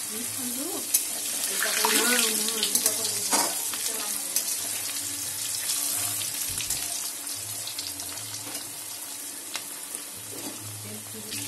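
Potato pieces frying in hot oil with panch phoron in a steel kadai: a steady sizzle, with a metal spatula scraping and tapping against the pan as they are stirred.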